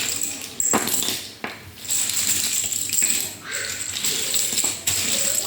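Small plastic board-game pieces clattering and clicking against each other as they are handled and poured.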